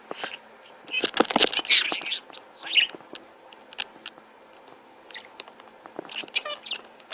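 A parrot's short chattering calls in several bursts, mixed with sharp clicks; the loudest burst comes about a second in.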